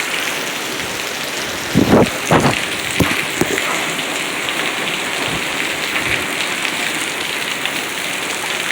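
Heavy rain pouring down steadily in a thunderstorm, with a couple of short loud thuds about two seconds in.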